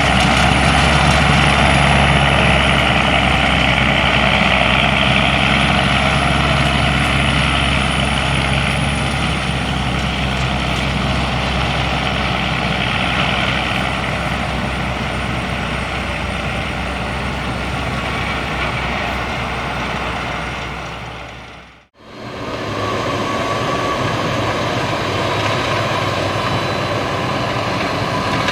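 The MAN diesel engine of a 2010 Prinoth Leitwolf W snow groomer running under load as the machine drives off, with a thin high steady whistle over it. About 22 seconds in the sound fades out and back in to the engine working hard again, the groomer pulling up a steep slope on its winch.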